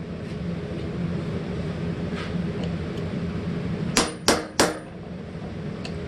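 Three quick hammer blows on a hot-cut chisel, about four seconds in, each with a short metallic ring, cutting through the end of a hot steel hammer head. A steady low hum runs underneath.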